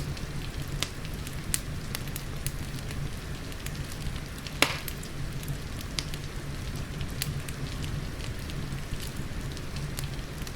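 Wood fire crackling in a fireplace, with scattered sharp pops and one louder pop a little under halfway through, over a steady low rumble and the hiss of rain.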